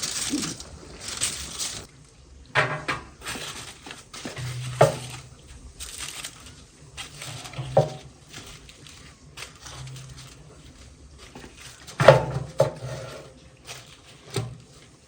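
Kitchenware being handled: dishes, pots and utensils clinking and knocking against each other, with about five sharper knocks spread out and the loudest about twelve seconds in, between quieter rustling and scraping.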